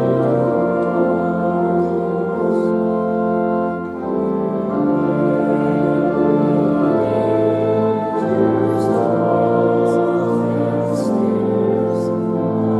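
Organ playing a slow hymn in held, brass-toned chords that change every second or two.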